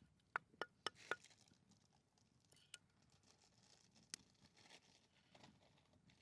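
Camp cookware clinking: four quick ringing clinks in a row about a second in, then two more single clinks.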